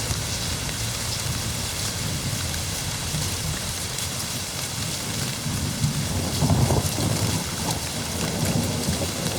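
Heavy rain pouring steadily with rolling thunder, one stronger rumble about two-thirds of the way in.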